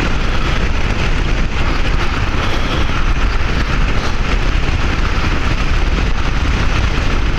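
Steady rush of wind over the rider's microphone, mixed with the running engine and road noise of a Bajaj Avenger motorcycle under way.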